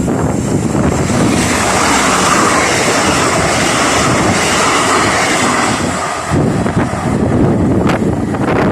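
Train passing the level crossing at speed: a loud, steady rush of wheel and air noise, with wind buffeting the microphone and a few short knocks near the end.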